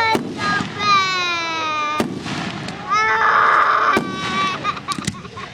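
Fireworks going off: sharp bangs about every two seconds, with whistling shrieks between them, one falling in pitch, and a bright hiss a little after the middle.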